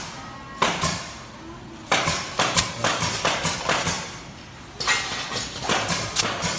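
Automatic chopstick and satay-skewer packing machine running, with rapid mechanical clacking that comes in bursts with short quieter lulls between.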